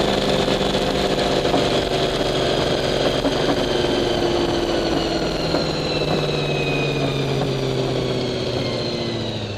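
Engine idling steadily, with a high whine that slowly falls in pitch.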